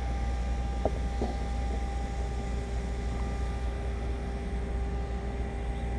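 Steady low background hum with faint steady tones, and two light clicks about a second in.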